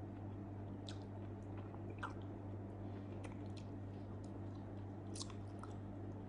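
Close-miked chewing of soft grilled eggplant, with scattered wet smacks and clicks of the mouth, over a steady low electrical hum.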